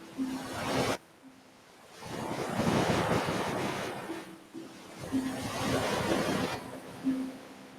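Ocean waves breaking and washing up a beach, rising in swells about two seconds in and again about five seconds in, with quieter lulls between.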